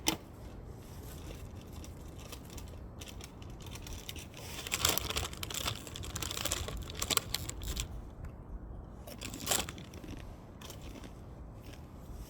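Firewood burning, crackling with scattered sharp pops: one at the very start, a busier run of crackles about halfway, and another loud pop later on, over a steady low rumble of the fire.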